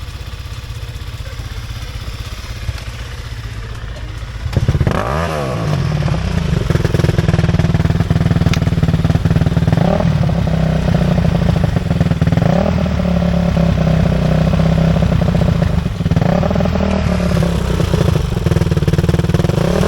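Dirt bike engine running at a low idle, then revved hard about four and a half seconds in and held loud with repeated rises and falls in pitch as the throttle is blipped.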